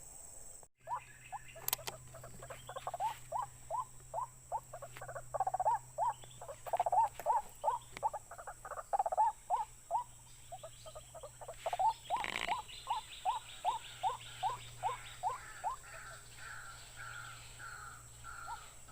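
An animal calling in a long series of short rising chirps, two or three a second, with higher notes joining about two-thirds of the way through.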